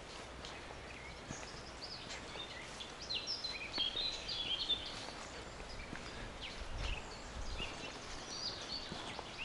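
Small songbirds chirping and singing in a forest, with a quick run of notes about three to five seconds in.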